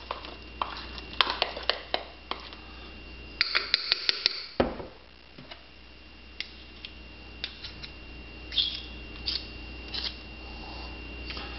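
A spoon stirring thick cake batter in a ceramic mug, with repeated clinks and knocks against the mug's sides, coming fast and close together about three to four seconds in, then sparser.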